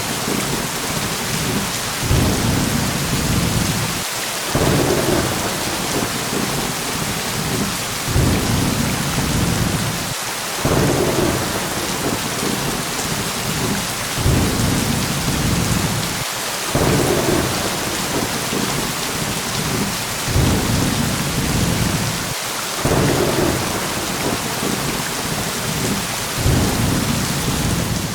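Steady heavy rain hissing, with low thunder rumbles that swell and fade roughly every two seconds.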